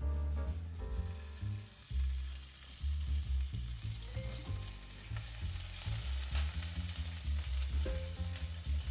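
Food sizzling and being stirred in a frying pan, the sizzle building from about two seconds in, under background music with a heavy bass line.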